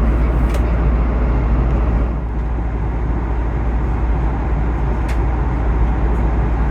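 Steady cabin noise of an Airbus A330-200 airliner: a loud, even rumble of engines and airflow, dipping slightly about two seconds in.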